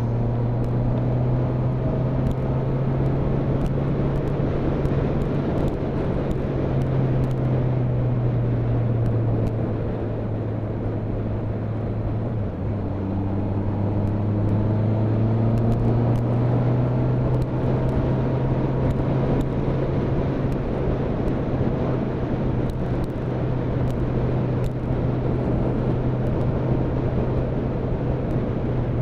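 Motorcycle on the move at road speed: a steady engine note under rushing wind and road noise. The engine dips briefly about twelve seconds in, then its pitch climbs slowly for a few seconds.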